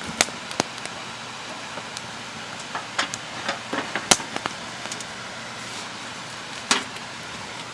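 A steady rush of running water, with about six sharp clicks and knocks scattered through it.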